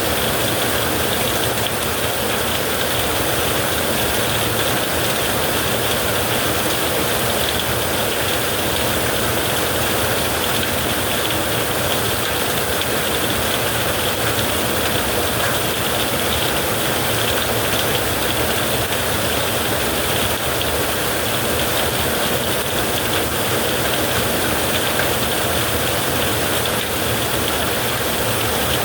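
Heavy rain falling in a steady, even hiss, with no thunderclap.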